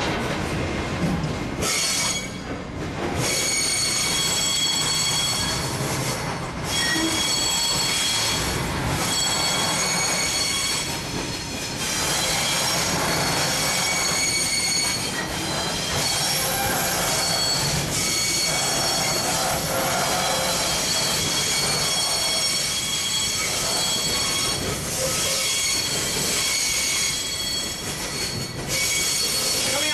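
Excursion train rolling along the track, heard from aboard a passenger car: a steady rumble of the cars with a high-pitched wheel squeal that fades and returns several times.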